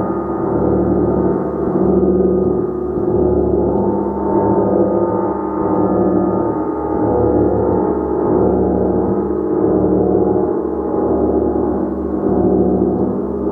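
A gong played continuously in a sustained, swelling wash of many overlapping tones, with gentle surges in loudness about every two seconds and no single sharp strike standing out.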